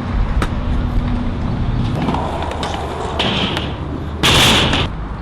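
Skateboard wheels rolling over concrete with a steady low rumble and a few sharp clicks, then a loud half-second rush of hissing noise about four seconds in.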